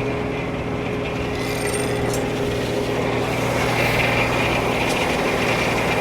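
Frick No. 1 circular sawmill running steadily between cuts, its blade spinning free with a constant drone and hum.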